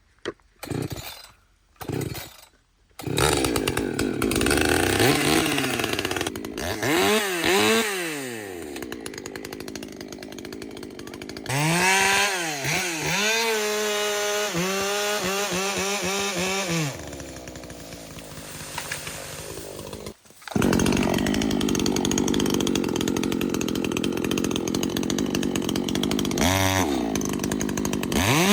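Echo CS-620PW ported 60cc two-stroke chainsaw. It sputters in a few short bursts, catches, and is revved up and down several times. From about two-thirds of the way through it runs steadily at high throttle, cutting wood. The owner later judges the carburettor tuned a little too lean.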